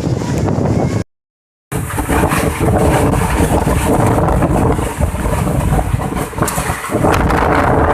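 Strong wind gusting and buffeting the microphone, with a short dead-silent break about a second in.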